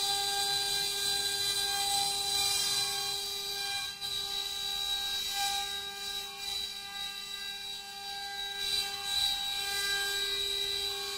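4-axis CNC carving router's spindle running, a steady high whine with several overtones.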